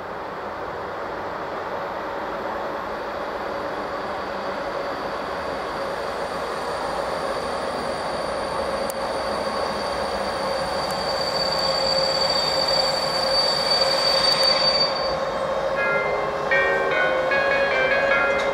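Train running into the station, its rumble growing steadily louder, with a steady high-pitched squeal of brakes or wheels on the rails that dies away about fifteen seconds in.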